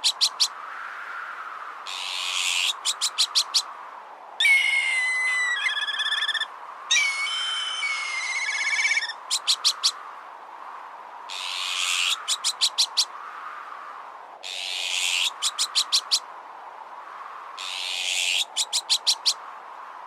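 Azure-winged magpie alarm calls and black kite calls over a strong wind. The magpie's harsh, rasping call, each ending in a quick run of about five sharp clipped notes, comes about every two to four seconds. In the middle, two black kite calls, a high whistle breaking into a wavering trill, take its place, and the wind swells and eases throughout.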